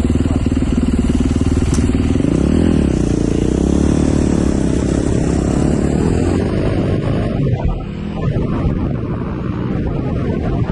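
Dirt bike engine running under way, its pitch rising and falling with the throttle, then settling lower as wind noise on the microphone takes over in the last few seconds.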